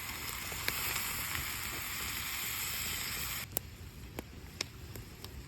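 Stew pot sizzling hard over a campfire, with a few sharp crackles. The loud sizzle cuts off suddenly about three and a half seconds in, leaving a softer sizzle with scattered ticks.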